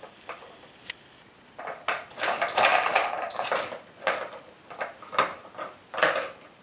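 Clattering and rattling of a treat puzzle game's pieces as a pet noses and lifts them to get at the treats hidden underneath. It starts with a couple of sharp clicks, then from about a second and a half in becomes a busy run of scrapes and knocks.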